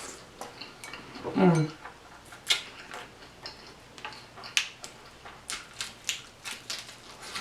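Scattered sharp clicks and taps, like a burger and its plate being handled, with a short falling hum from a person about a second and a half in.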